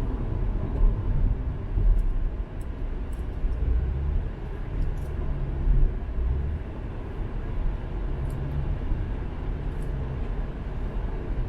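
Car driving at road speed: a steady low rumble of tyres and engine heard from inside the cabin.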